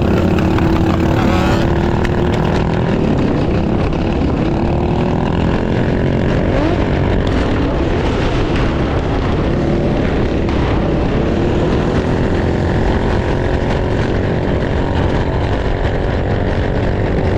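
Mini bike engines running during a group ride, their pitch rising and falling as they rev and ease off, over a steady low rush of noise.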